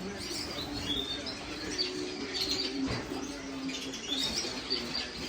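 Many caged finches and canaries chirping together in a bird room, short high calls overlapping irregularly, over a low steady hum.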